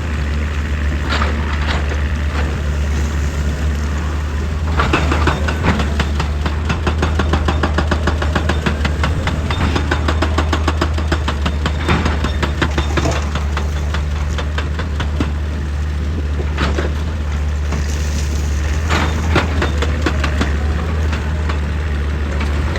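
Diesel engine of an excavator running steadily under load. A stretch of fast, rattling knocks runs for several seconds in the middle, and heavy clanks of the machine working rock come now and then.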